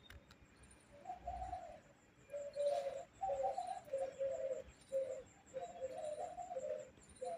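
Pigeons cooing: low, soft notes, one about a second in, then a steady run of repeated coos.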